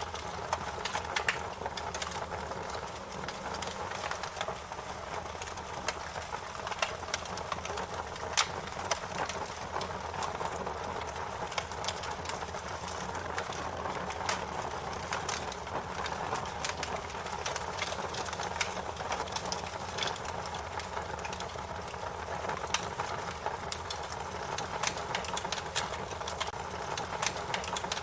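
Wood fire crackling: dense, irregular pops and snaps over a steady hiss and low rumble of the burning logs.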